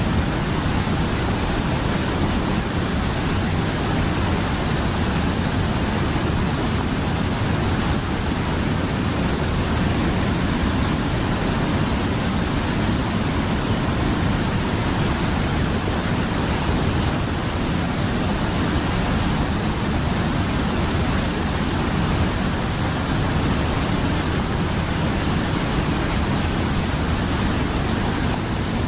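Mountain river rushing steadily over rocks, a continuous even roar of flowing water.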